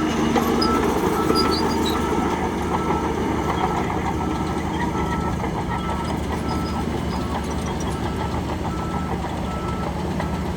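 Diesel engine of heavy earthmoving machinery running steadily, with a reversing alarm sounding short, evenly spaced beeps over it.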